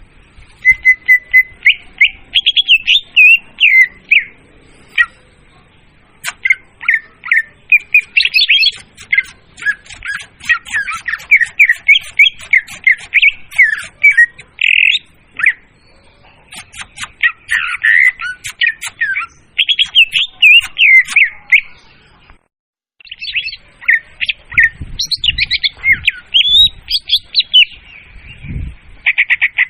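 Leafbird (murai daun) song played as a bird lure: a loud, fast, continuous run of sharp chirps, whistled warbles and squawky notes that briefly cuts out about three-quarters of the way through.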